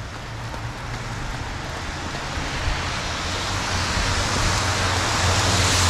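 Road traffic on wet pavement: a steady rushing hiss of tyres with a low rumble, growing steadily louder toward the end.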